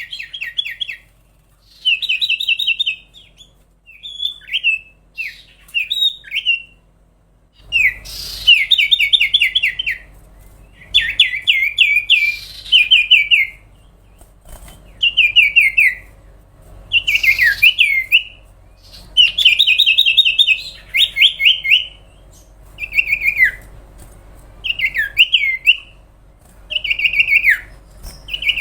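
Common iora (cipow, sirtu) singing: bursts of rapid trilled notes and short slurred whistles, one phrase every couple of seconds. A faint low hum comes in about eight seconds in.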